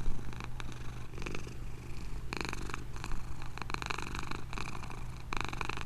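Domestic cat purring steadily, with two brief louder moments about two and a half seconds in and near the end.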